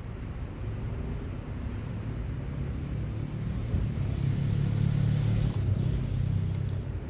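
Low engine rumble of a passing vehicle. It builds to its loudest about four to six seconds in, then eases off near the end.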